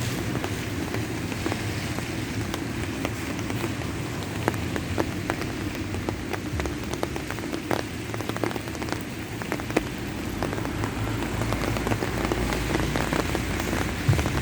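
Steady rain falling, with many sharp separate drop taps close by over the hiss.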